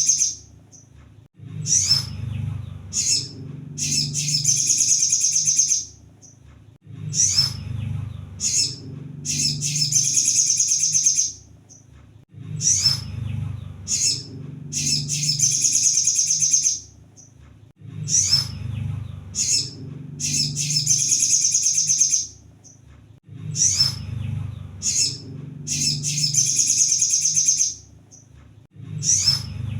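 Kolibri sogon song recording: a rapid, high trill lasting about two seconds, then a few short sharp chirps. The phrase repeats every five or six seconds over a low steady hum.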